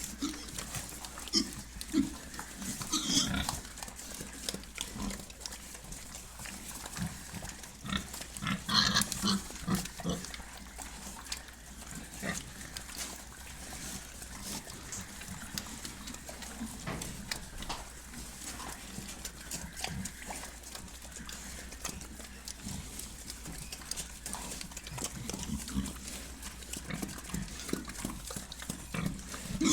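Pig squalling: short, irregular grunts and squeals, with the loudest high-pitched squeals around three seconds in and again around nine seconds, over a steady low hum.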